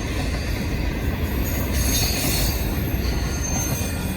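Freight train cars rolling past close by: a steady rumble of wheels on rail, with thin high-pitched wheel squeals coming and going over it.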